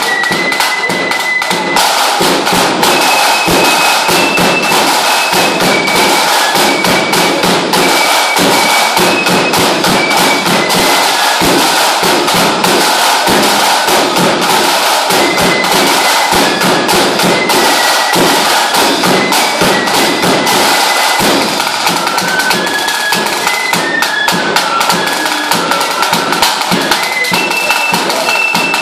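Lambeg drum beaten with canes in a fast, dense, continuous roll of strokes, with a high piped melody, typical of a fife, playing a tune over the drumming.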